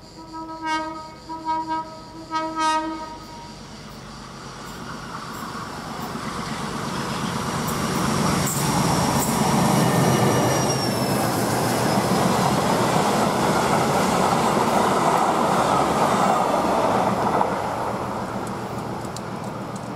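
Freight train locomotive sounding a few short horn blasts, then the train rolling past, its rumble and wagon wheels building up, with some high wheel squeal, and easing off near the end.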